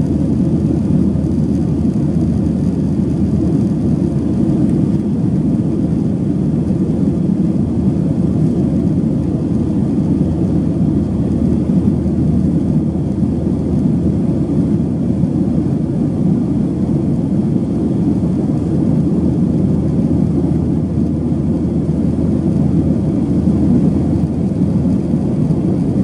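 Steady, loud cabin noise of a Boeing 737-800 in flight: a low rush of CFM56-7B engine and airflow noise, unchanging throughout.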